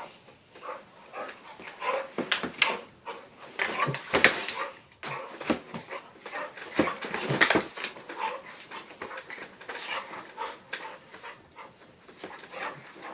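A dog and a cat play-fighting: short whines and grunts from the dog among quick scuffles and clicks, busiest from about two to eight seconds in.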